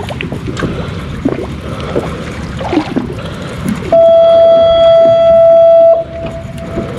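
Steady background noise on a boat, then about four seconds in a loud, steady horn-like tone sounds for two seconds and cuts off suddenly.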